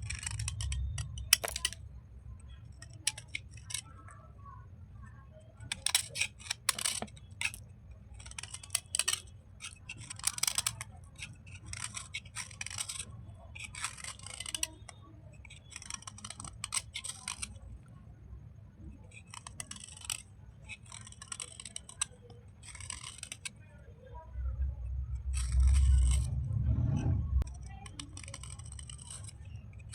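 Wet slate-chalk bars and chips being scraped and scrubbed in repeated short strokes, about one a second, with a louder low rumble of handling near the end.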